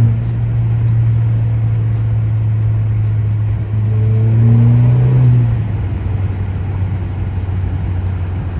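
Exhaust of a 2017 Alfa Romeo Giulia's turbocharged 2.0-litre four-cylinder with a muffler delete: a steady low drone while cruising. About four seconds in it rises in pitch and gets louder under acceleration, then drops back about a second and a half later.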